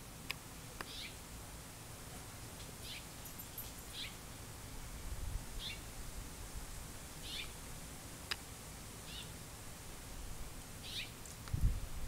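A small bird chirping: short, high, falling chirps repeated every second or two over a faint background hiss. A low rumble comes near the end.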